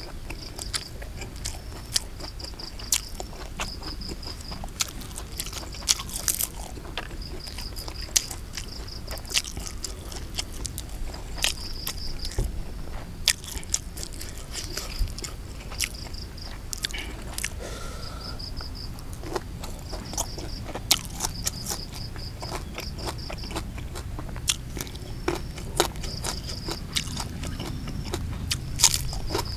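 A person chewing and crunching food close to the microphone, with frequent sharp crunchy bites at irregular intervals. An insect trills in short repeated bursts in the background.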